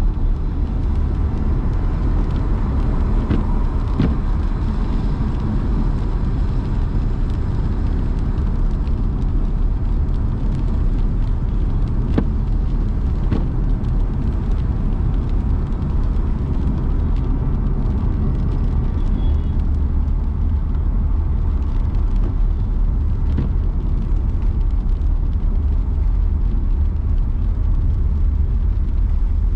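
Car driving, a steady low engine and road rumble with a few brief clicks.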